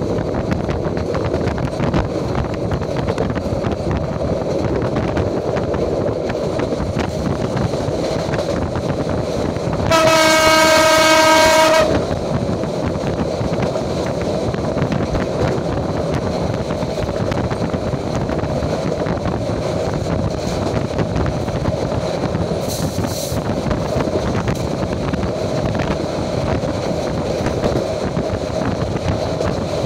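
Passenger train running at speed, its steady rumble and rattle heard from inside the carriage. About ten seconds in, a train horn sounds one long blast of about two seconds.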